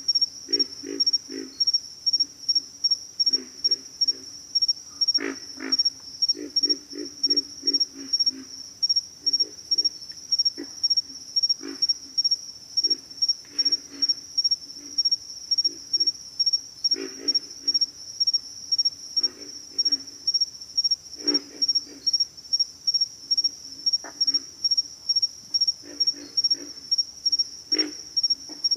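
Pig frogs calling: short, low, pig-like grunts, often in quick runs of four to eight, repeating throughout. Under them runs a steady high-pitched insect drone.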